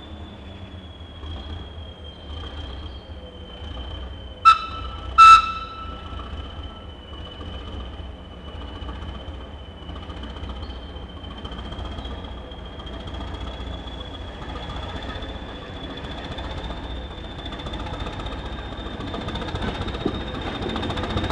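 Hastings 'Thumper' diesel-electric multiple unit's English Electric diesel engine running with a steady low rumble and a high whine, with two short loud sharp blasts about four and a half seconds in. Near the end the engine grows steadily louder as the unit prepares to depart.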